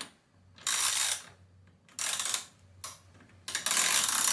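A ratcheting hand tool clicking in several short bursts of turning, the kind of sound made while driving a licence plate frame's screws.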